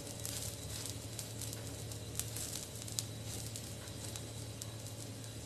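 Butter sizzling on a tawa under two kulchas toasting over a low flame, a steady hiss with scattered small crackles and pops as the bread crisps.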